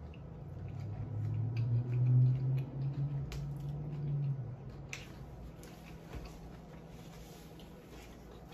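A woman chewing a mouthful of carrot hot dog in a bun, with a long, low hummed "mmm" from about one to four and a half seconds in, then a few soft mouth clicks and smacks.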